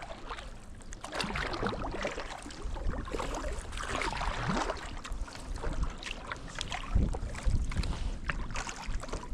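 Kayak paddling: paddle blades dipping and water splashing and dripping, with wind on the microphone. A few low thumps come about seven seconds in.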